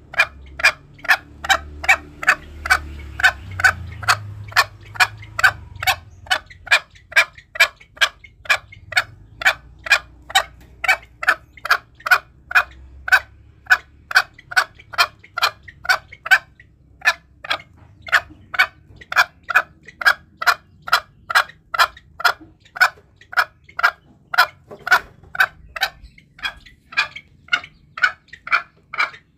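Green junglefowl repeating a short call about twice a second, with a brief pause about midway.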